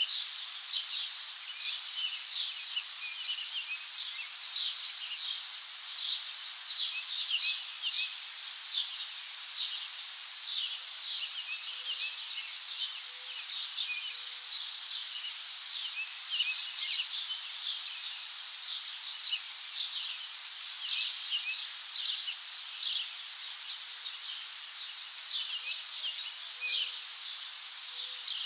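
A dense chorus of small birds chirping, many short high chirps overlapping without pause over a steady hiss.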